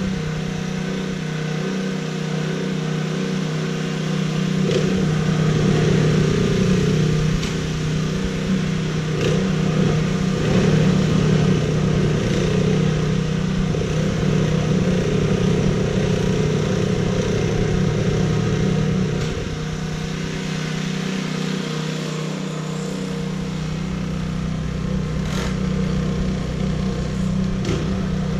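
An engine running at a steady speed, with a few faint clicks over it.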